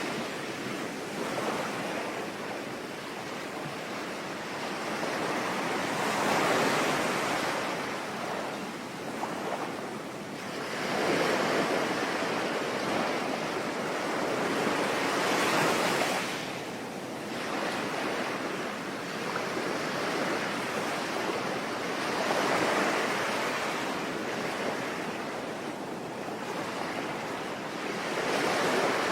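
Ocean waves breaking and washing up on the shore, surging every four to six seconds, with rain falling steadily underneath.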